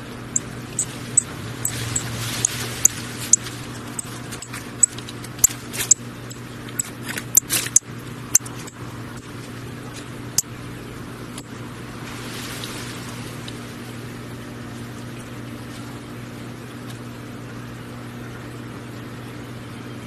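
A string of short, sharp, high chip notes from a small songbird, a dozen or so spaced irregularly through the first half, over a steady low hum; after that only the hum.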